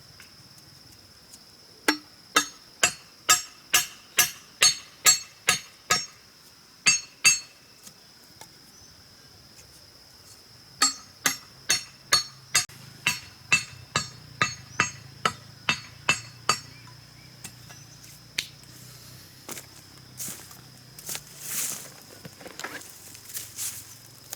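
Two runs of sharp blows from a hand tool striking, about two a second, then a few scattered knocks and a brief rustle near the end, over a steady high insect drone.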